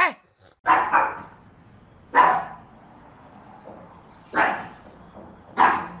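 A dog barking: a short yip at the start, then four single barks spaced a second or two apart.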